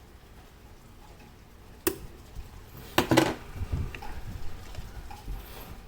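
Metal clinking as small hard parts or tools are handled: one sharp clink about two seconds in, then a louder quick cluster of clinks a second later, followed by a few soft low knocks.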